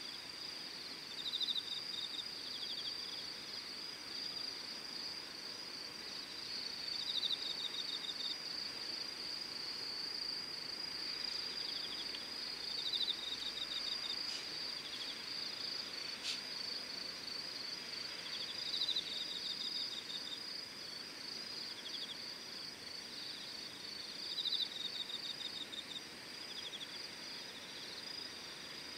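Insects calling, crickets among them: a steady high-pitched trill with another insect's pulsed chirping phrases repeating every few seconds. Two faint clicks come about halfway through.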